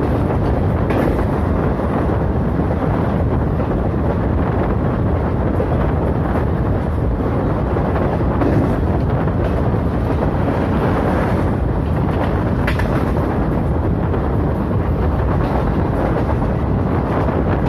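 Passenger train running at speed: a steady rumble of wheels on the track with rushing wind, broken by a few light knocks.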